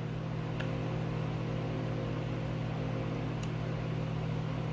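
Steady low mechanical hum, with two faint clicks, one about half a second in and one past the three-second mark.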